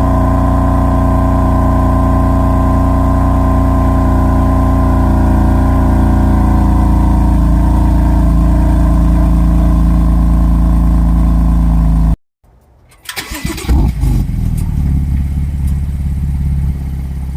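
BMW F80 M3's twin-turbo inline-six running at a loud, steady cold-start high idle, its pitch easing down slightly. It cuts off suddenly about twelve seconds in. About a second later the engine is started again, flares up briefly and settles into a lower, quieter idle.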